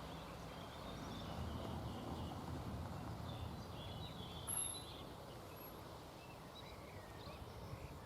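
Birds chirping over an outdoor background with a faint low hum during the first few seconds.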